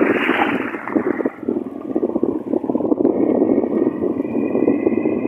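Floodwater rushing and churning around the person or craft moving through it, with wind buffeting the microphone; a faint steady high whine joins about three seconds in.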